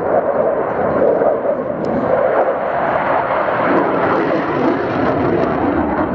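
Saab JAS 39 Gripen fighter's Volvo RM12 jet engine running loud and steady as the jet flies its display.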